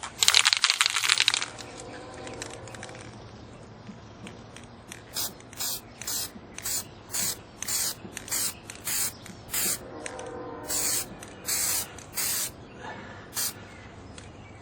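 Aerosol spray can spraying: one loud hiss of about a second near the start, then a run of short, quick spray bursts about two a second.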